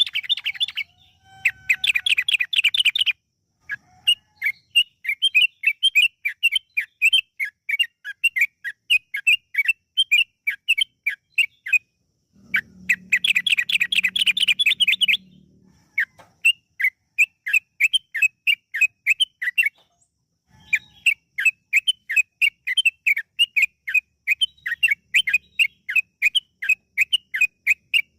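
Yellow-vented bulbul (trucukan) singing: long runs of quick, clear chattering notes, about three a second, broken near the start and again about halfway by short bursts of rapid, dense trilling.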